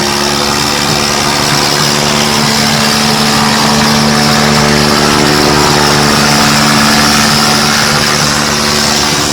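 Tractor diesel engine running loud and steady, with an unchanging pitch throughout.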